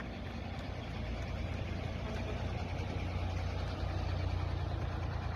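Tanker truck's diesel engine running steadily at a low hum, slowly getting a little louder.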